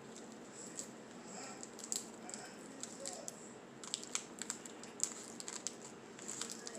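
Plastic snack packet crinkling and crackling in the hands as it is handled and opened, with many short, irregular crackles.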